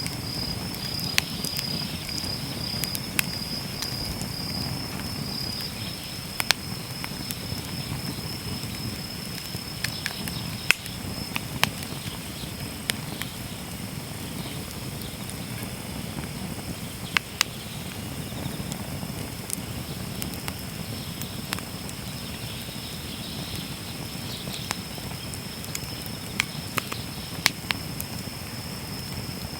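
Wood fire burning in a fire pit: irregular sharp crackles and pops, a few every couple of seconds, over a steady low rush of flame. A steady thin high tone runs underneath.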